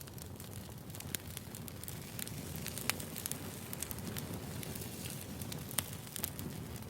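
Wood fire burning, crackling with irregular sharp pops and snaps over a steady low rumble.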